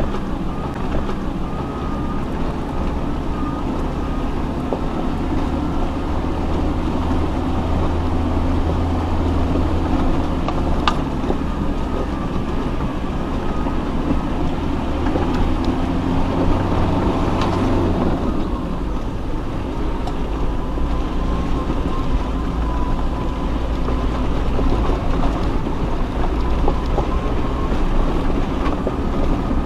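Four-wheel-drive off-road vehicle's engine running steadily as it is driven over a rough mountain track. The engine note drops about two-thirds of the way through.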